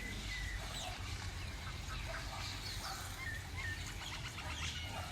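Several birds chirping and calling in short whistled notes, over a steady low rumble.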